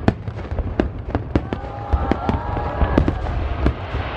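Aerial fireworks display: a rapid, irregular series of sharp bangs and crackling pops over a continuous low rumble. Several whistling tones, some held steady and some arching up and down, run through the middle.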